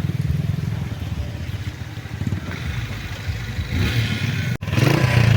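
Honda CG125 single-cylinder four-stroke motorcycle engine running under way, easing off over the first few seconds. Near the end the sound cuts out for an instant and comes back louder.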